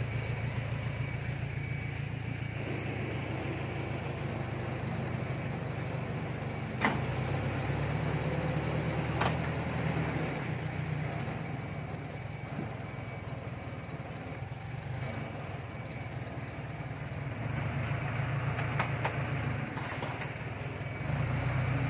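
A truck's engine running steadily, with two sharp knocks about seven and nine seconds in.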